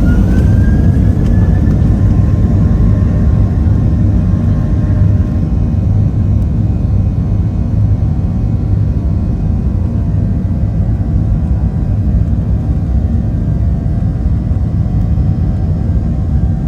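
Boeing 737-700 heard from inside the cabin. The CFM56-7B jet engines spool up with a whine that rises over the first two seconds, then settle into a loud, steady rumble, as heard on the takeoff run.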